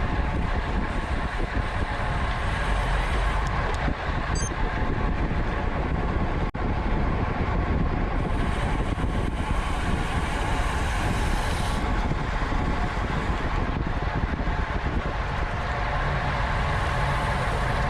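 Steady wind noise on the microphone of a camera riding on a racing bicycle at speed, mixed with road and tyre noise, with a brief dropout about six and a half seconds in.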